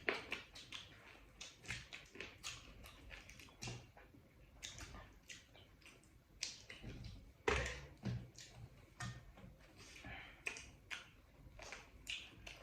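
Food being chewed and handled close to the microphone: irregular crisp clicks and taps, with louder knocks at the start and about seven and a half seconds in.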